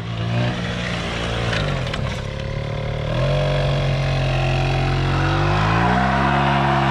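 Suzuki LT80 quad's 80cc two-stroke single-cylinder engine revving. The pitch dips about two seconds in, then climbs in two steps, near three seconds and again near six seconds, to a steady high note held on the rev limiter.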